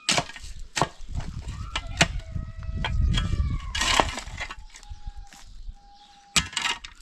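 Stones knocking and cracking against each other as they are handled, a dozen or so sharp knocks, with a low rumble through the middle. Thin animal calls sound over it.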